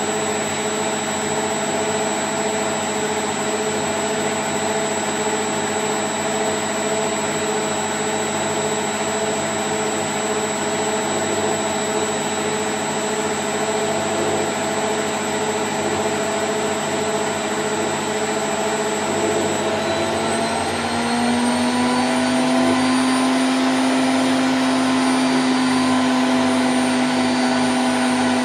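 Candy Grand O' F106 washing machine drum spinning in its spin cycle, a steady whirring hum with a whine over it. About twenty seconds in the pitch climbs and it gets a little louder as the drum speeds up toward its top spin speed of 1000 rpm.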